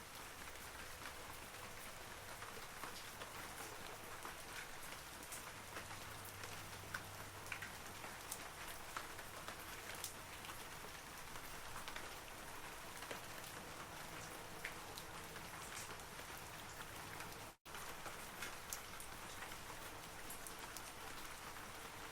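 Steady rain falling on forest trees: an even hiss with many separate drops ticking through it. The sound cuts out completely for an instant about three quarters of the way through.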